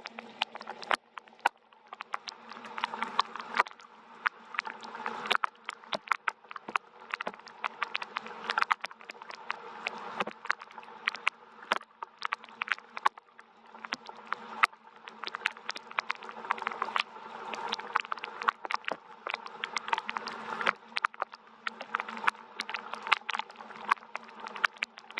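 Gentle rain: scattered drops ticking sharply and irregularly on a hard surface over a soft hiss that swells and fades every few seconds, with a faint steady low hum underneath.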